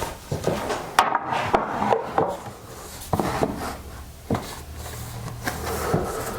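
A wooden board being handled: a series of sharp knocks and clatters, with wood rubbing on wood.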